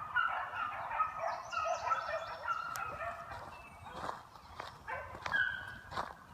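Several beagles baying while running a scent trail, their short overlapping calls coming thick at first and thinning out after about three seconds.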